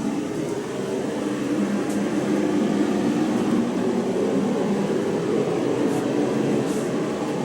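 Steady low mechanical rumble, like a running machine, with a few faint clicks.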